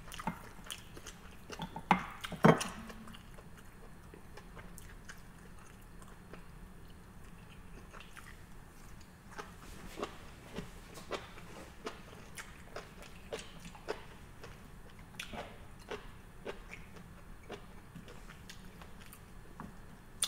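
A person chewing food with soft, scattered mouth clicks, and two sharper clicks about two seconds in.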